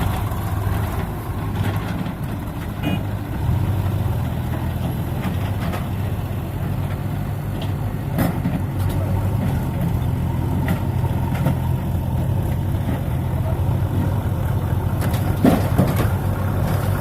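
Heavy diesel engine running steadily at low revs, with a few sharp knocks, the loudest near the end.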